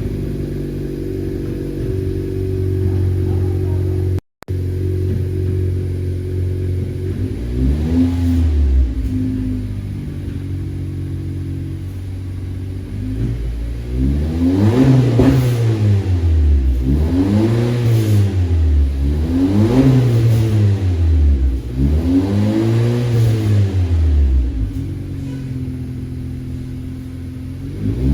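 Straight-piped 2018 Honda Accord LX's 1.5-litre turbo four-cylinder idling, then revved repeatedly: one blip about a third of the way in, then a series of blips about every two and a half seconds, each rising and falling in pitch.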